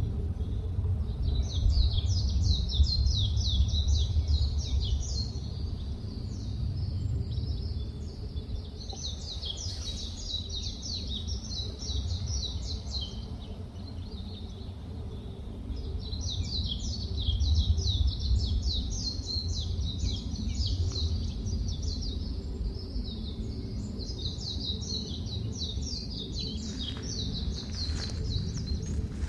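A small songbird singing long, high trills of rapid repeated notes, four phrases a few seconds apart, over a steady low rumble.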